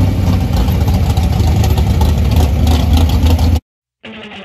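Loud car engine running with a deep, steady rumble that cuts off abruptly about three and a half seconds in; quieter music begins half a second later.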